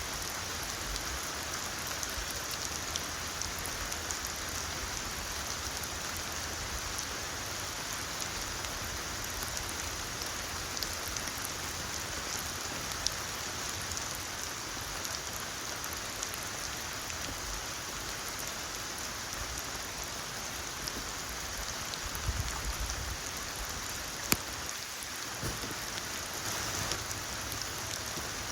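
Steady rainfall in a forest, a constant hiss with scattered sharper drop hits; one crisp drop stands out near the end.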